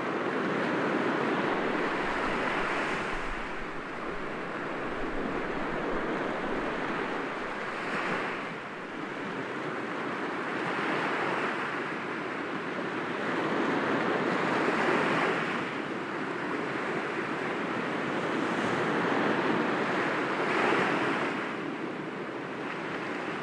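Sea waves breaking gently against rocks, a continuous wash of surf that swells with each wave every few seconds.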